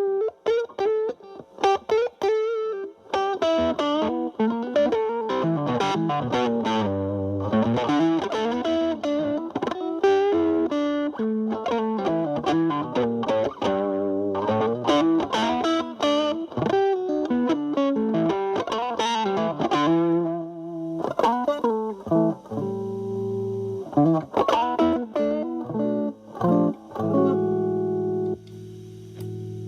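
Fender Stratocaster through a Boss DS-2 Turbo Distortion pedal in turbo mode, distortion knob at twelve o'clock, into a Marshall Valvestate amp's clean channel. It plays quick single-note lead lines with string bends, then a few held chords near the end.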